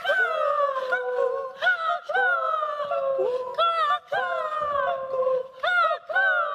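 Several children's voices making bird-call imitations: high vocal calls that overlap, each rising briefly and then sliding down in pitch, coming about one or two a second.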